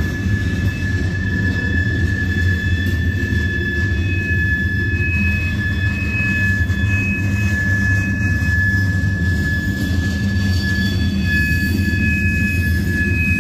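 A freight train of covered hopper cars rolls steadily past: a continuous low rumble of steel wheels on rail. A thin, steady high-pitched squeal runs over it throughout.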